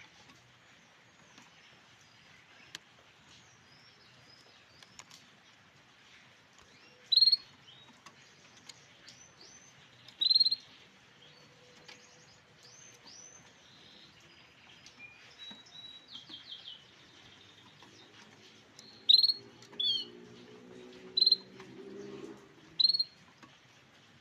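Grey canary giving short, sharp single chirps every few seconds, about six loud ones, over fainter bird calls.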